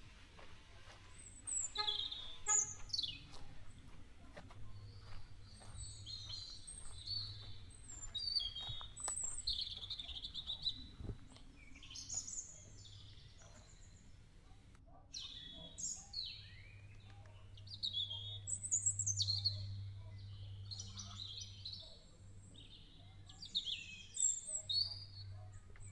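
Several birds chirping and calling, in clusters of short calls, some sweeping down in pitch, with a low steady hum underneath.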